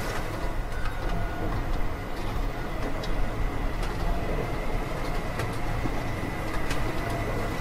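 Small electric motor running steadily, driving a miniature model pumpjack through thin belts, with a thin steady whine and a few faint irregular clicks from the linkage.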